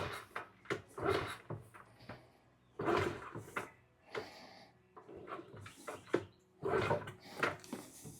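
A 1972 Honda Z50 mini bike's small four-stroke single being kick-started: several kicks in a row, each a short chuffing burst as the engine turns over without catching.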